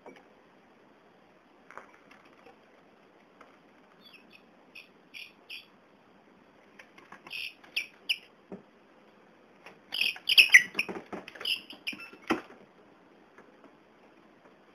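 A young bird peeping: short, high calls in quick groups that grow louder and thicker about ten seconds in, with a couple of sharp knocks among them.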